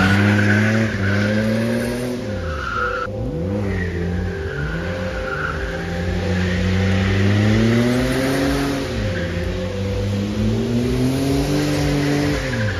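Car engine revving hard while drifting on wet tarmac, the revs climbing and dropping sharply several times, over a steady hiss.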